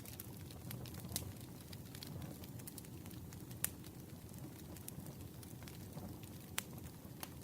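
Campfire burning: a steady low rumble of flames with scattered sharp crackles and pops, the loudest about halfway through.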